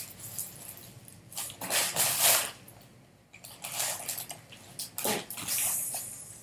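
Rummaging through a bin of squishy toys: irregular bursts of rustling and handling noise, the loudest about two seconds in and again about five seconds in.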